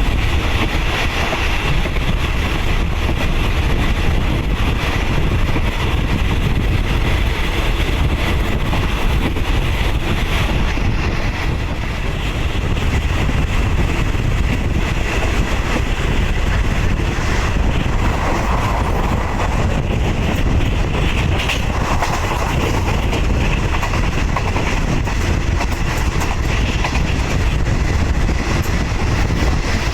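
Passenger train running at steady speed, heard from aboard a third-class carriage: a continuous rumble of wheels on the track.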